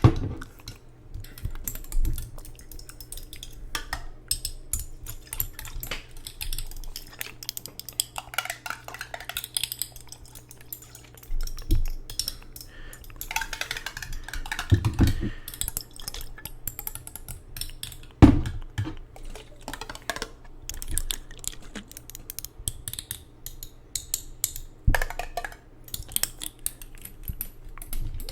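Irregular close-up tapping, clicking and handling of hard objects, with a few louder knocks about 2, 15, 18 and 25 seconds in, over a faint steady low hum.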